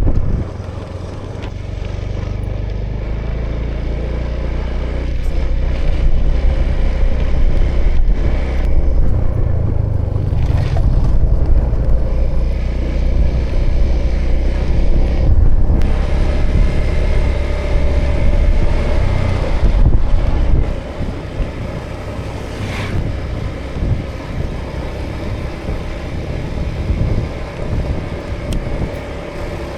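A 2018 Honda Vision scooter's small single-cylinder engine running while riding, mixed with wind rumble on the action camera's microphone. It grows louder through the middle, then eases off about two-thirds of the way through.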